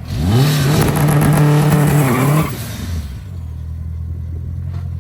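Car engine revved hard: it jumps up right at the start, holds at high revs for about two seconds, then drops back to a steady idle.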